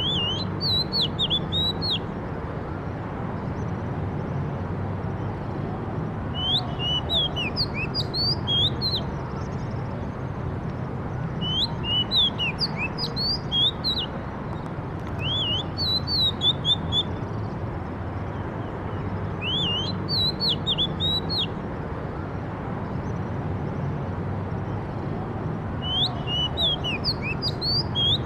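A songbird singing short phrases of quick, high sweeping notes, six phrases each about two seconds long with pauses of a few seconds between them, over a steady low background rumble.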